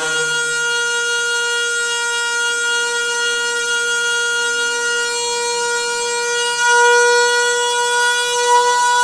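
Noisy water pipe giving a steady high tone with many overtones, which comes in suddenly and grows louder about seven seconds in.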